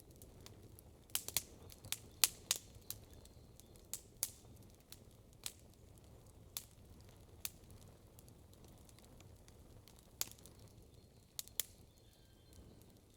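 Wood campfire crackling: irregular sharp pops and snaps, several in quick succession in the first three seconds and a few more near the end, over a faint low rumble.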